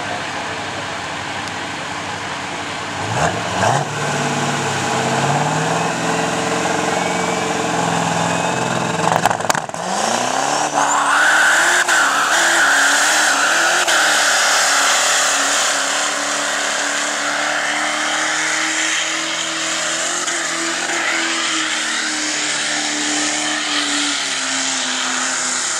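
Diesel pickup truck engine revving up and running hard under load as it pulls the weight sled. The pitch rises sharply about three seconds in and holds, breaks off suddenly a little before halfway, then climbs again, wavers and settles into a steady drone.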